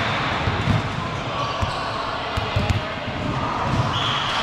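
A volleyball being hit and bouncing on an indoor court floor: a string of separate thuds spread through the few seconds.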